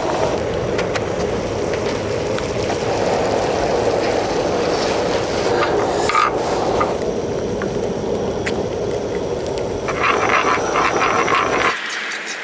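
Food sizzling and bubbling on a hot camping griddle, a dense crackle with scattered pops. The low part of the sound drops away abruptly near the end.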